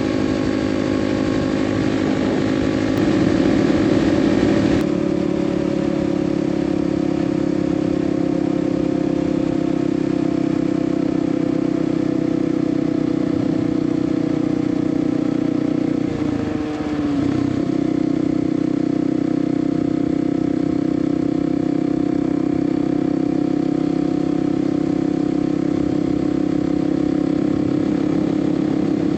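Kawasaki KLX300's single-cylinder engine running steadily at highway cruising speed. A little past halfway the engine note briefly dips in pitch and level, then settles back to the same steady tone.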